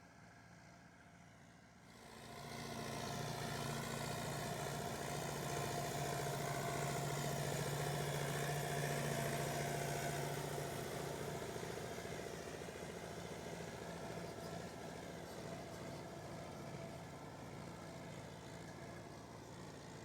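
A motor vehicle's engine running steadily. It comes in about two seconds in, is loudest through the middle, then slowly fades.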